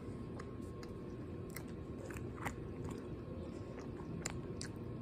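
Close-up chewing of a soft gummy candy with a sour coating: scattered wet mouth clicks and smacks over a steady low background hum.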